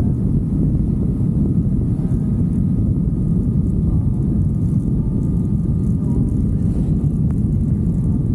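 Steady low rumble of a motorcycle ride under way: wind and road noise over the running bike.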